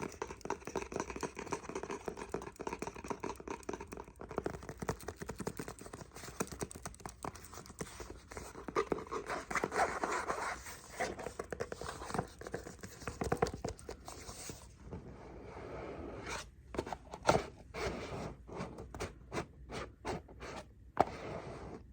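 Fingernails scratching and rubbing on a cardboard glasses box as it is handled and opened. After about fifteen seconds it turns to separate sharp taps and clicks.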